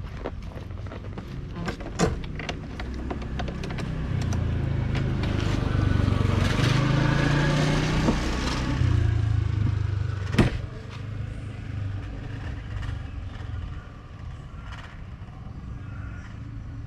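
Riding a motorbike in traffic: a steady low engine and road rumble with wind noise. It grows louder for several seconds in the middle and then falls back, and there are two sharp knocks, one about two seconds in and one about ten seconds in.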